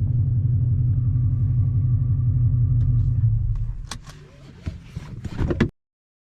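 Dodge Challenger R/T Scat Pack's 6.4-litre HEMI V8 running with a steady low rumble, then switched off about three and a half seconds in. A few sharp clicks and knocks follow before the sound cuts off abruptly.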